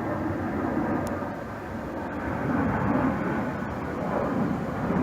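Airplane flying past: a steady, even noise that swells a little midway.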